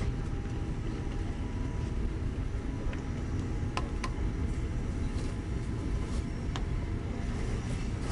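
Steady low rumble of a moving passenger train heard from inside the carriage, with a few faint clicks around the middle.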